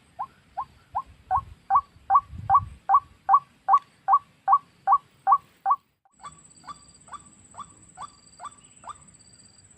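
White-breasted waterhen (ruak-ruak) calling: a fast series of the same short note repeated about two and a half times a second, growing louder. It cuts off abruptly about six seconds in, then resumes fainter alongside a steady high whine and short high chirps.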